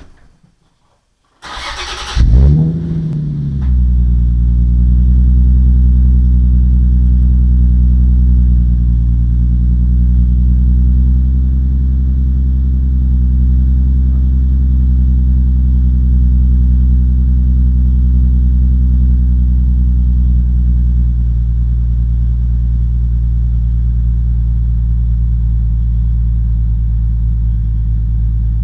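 A 2008 Nissan 350Z's 3.5-litre V6 cold-starting through an Invidia Gemini true-dual cat-back exhaust with Berk high-flow cats. After a click and a short crank it catches about two seconds in with a brief flare, then settles into a steady, loud cold fast idle that eases down a little past the middle.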